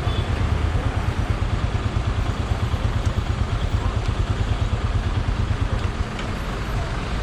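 Motorcycle running on the road, with a heavy, fluttering low rumble.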